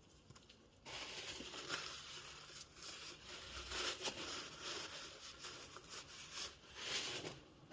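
Soft rustling with scattered light clicks, starting about a second in and stopping near the end: hands handling and fitting small parts of a bicycle mid-drive motor.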